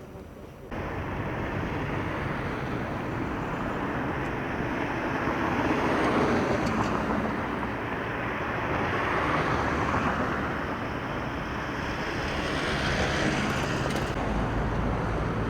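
Motor vehicle noise with no distinct pitch, cutting in abruptly about a second in, then swelling and easing several times as vehicles pass.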